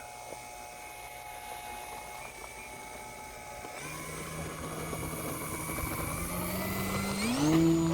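Electric motor and propeller of an E-flite Night Timber X RC plane, throttled up for takeoff. A low whine starts about four seconds in and climbs sharply in pitch and loudness near the end.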